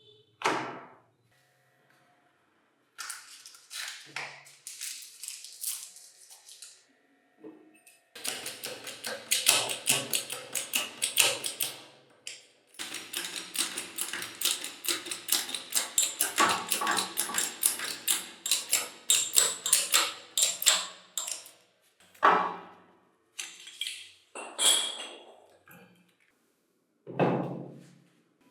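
Quick, light metallic taps and clicks in long runs of several a second, with a few separate knocks near the end, as the concrete vibrator's metal parts are fitted and tapped together during reassembly.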